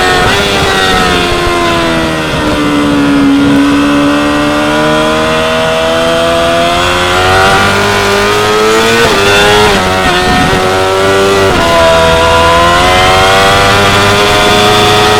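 2016 Yamaha R6 sport bike's inline-four engine at track speed. Its pitch falls steadily for about three seconds and then climbs again under throttle, with two sudden drops in pitch about nine and twelve seconds in as it shifts up a gear.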